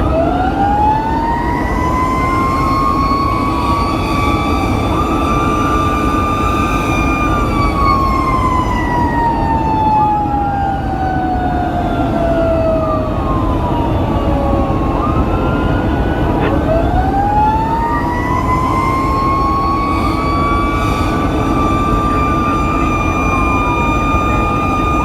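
Fire engine siren wailing over the truck's low engine and road rumble. The siren winds up quickly, holds a high steady pitch for several seconds and then falls away slowly. About two-thirds of the way through it winds up again and holds high.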